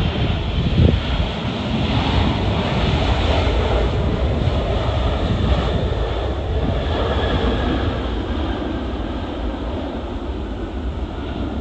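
Jet airliner's engines as the aircraft passes, the noise slowly swelling and then fading, with gusts of wind buffeting the microphone.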